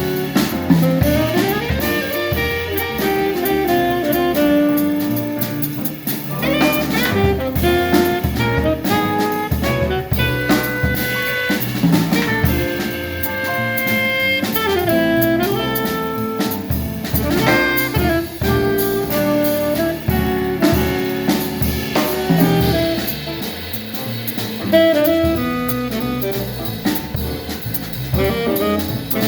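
A quartet playing live music: a melody line with sliding notes over a steady drum beat.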